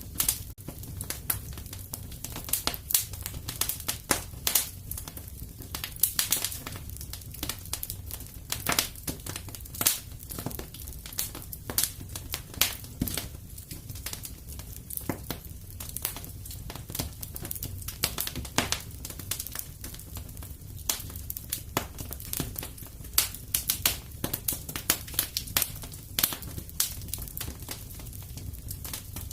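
Wood fire burning in a fireplace: a steady low rumble of flame with many sharp crackles and pops of burning logs, irregular, several a second.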